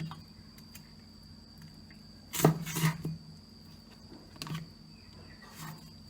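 A few sharp clinks and knocks of dishes and utensils, the loudest a pair about two and a half seconds in, over a steady high-pitched whine and a low hum.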